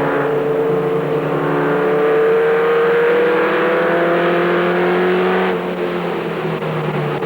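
Race truck's engine heard from inside the cab under hard acceleration, its pitch climbing steadily for about five seconds; then the throttle comes off and the revs drop suddenly and hold lower, as for a corner entry.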